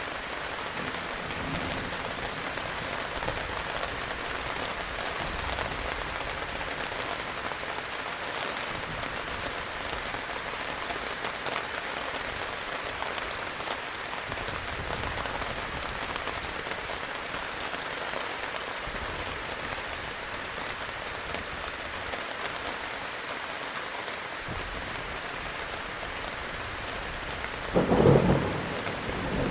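Heavy rain falling steadily. A single clap of thunder breaks in near the end and is the loudest sound.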